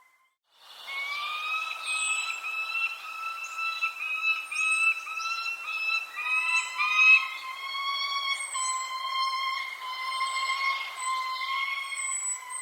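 Birds calling: a continuous chorus of clear whistled notes that shift in pitch every fraction of a second, with short, high down-slurred chirps about once a second. It starts suddenly after a brief silence about half a second in.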